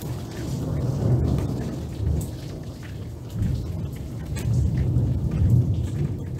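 Steady rain falling on tree leaves, with scattered drop ticks, over a low, uneven rumble that swells and fades every second or so.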